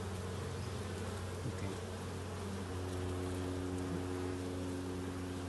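Honeybees buzzing around a hive: a steady hum of overlapping held tones.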